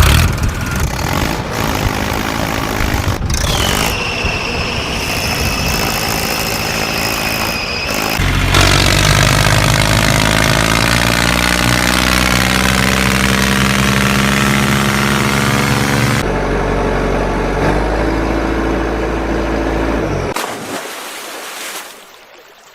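Vehicle engine sounds in several abruptly changing segments: a high whine that falls and then holds steady, then a strong steady low engine drone, then a different engine sound that fades out near the end.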